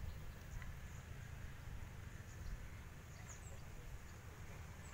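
Faint outdoor ambience: scattered short, high bird chirps over a low, steady rumble.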